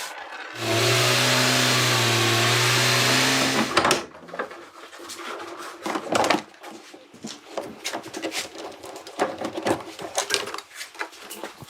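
A machine with a steady low hum and loud hiss runs for about three seconds, then stops; irregular clicks and knocks of handled tools or parts follow.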